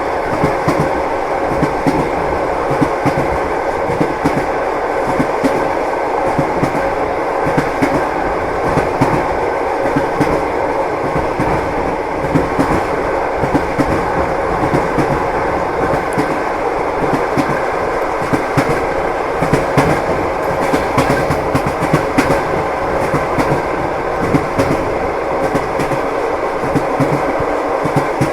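Train wheels knocking over rail joints, a continuous clickety-clack with a steady rumble of the moving carriage.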